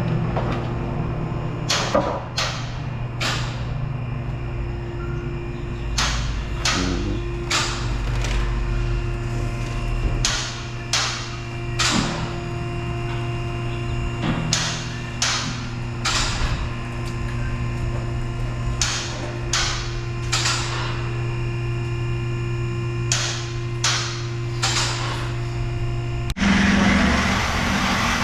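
Hammer striking metal: about twenty sharp knocks at an uneven pace over a steady mechanical hum.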